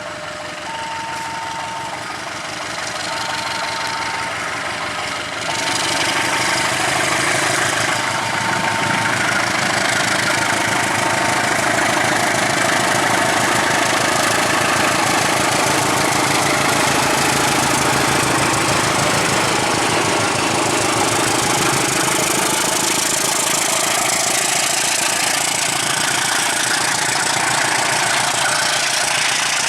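An engine running steadily, growing louder about five seconds in and staying loud. A repeating on-off electronic beep sounds over it during the first ten seconds or so.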